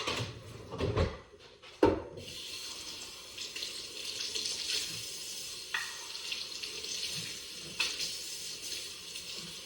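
A few sharp knocks, then a faucet running steadily into a sink from about two seconds in, with a couple of clinks.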